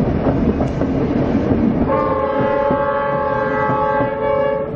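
Heritage train running along the line, a steady rumble with clicking of the wheels over the rails, heard from inside a carriage. About two seconds in, the locomotive sounds one long, steady blast of several notes at once, lasting nearly three seconds.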